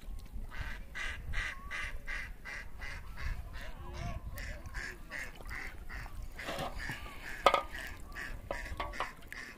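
A bird calling in a rapid, even series of short calls, about four a second, with a sharp knock about three quarters of the way through.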